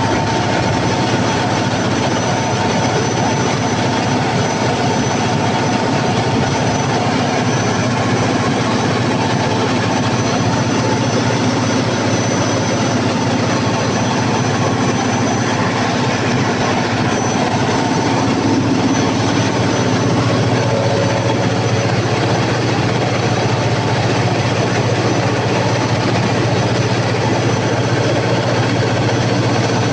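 Freshly overhauled Cummins KTA50 V16 diesel generator set running loud and steady on a load test. Its low note strengthens about twenty seconds in.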